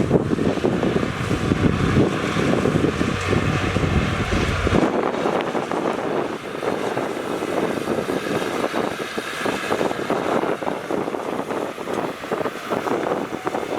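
Heavy diesel construction machinery running, with wind on the microphone. About five seconds in, the deep rumble cuts out abruptly, leaving a noisier, crackling wash.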